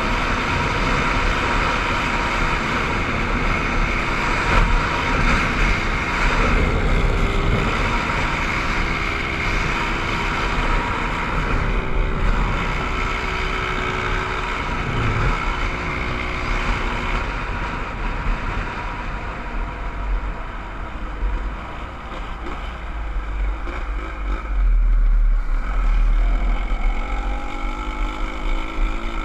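Motorcycle engine running while being ridden, with wind rumbling on the microphone. The engine note rises and falls with the throttle and climbs again near the end.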